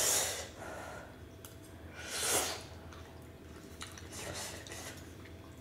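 Close-miked wet chewing and mouth sounds of someone eating Korean spicy cold chewy noodles (jjolmyeon), with two short hissing breaths or slurps, one at the start and one about two seconds in.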